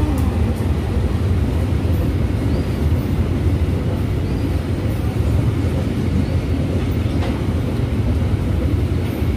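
KAI train passing a level crossing, its wheels rolling on the rails in a steady, loud rumble.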